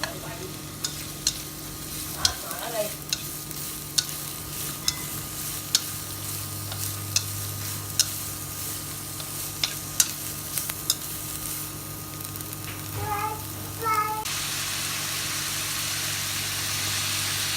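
Food frying in a pan, with sharp clicks of a utensil against the pan about once a second. About fourteen seconds in, a louder, steady sizzle sets in.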